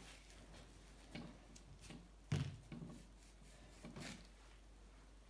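A few scattered knocks and clicks of hand tools on metal bicycle parts during work on a crank arm's crank-puller thread, the sharpest about two seconds in.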